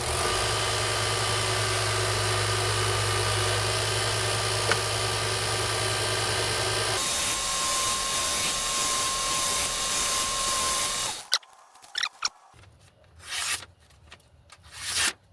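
Belt grinder running with a felt belt, used to take the burr off a freshly sharpened knife edge. It runs steadily, its tone shifting about seven seconds in, then cuts off about eleven seconds in, followed by a few short brushing sounds.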